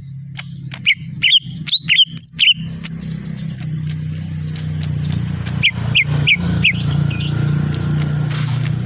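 Green leafbird (cucak ijo) calling in short, sharp chirps: a quick run of notes about a second in and another run of four about six seconds in, over a steady low hum.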